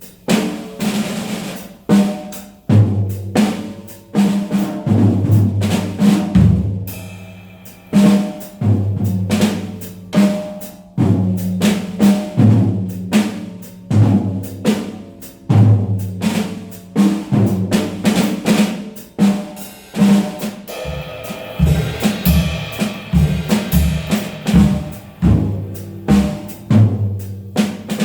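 Jazz drum kit playing a busy passage of snare, tom and bass-drum strokes with rolls and rimshots, the toms sounding at several pitches.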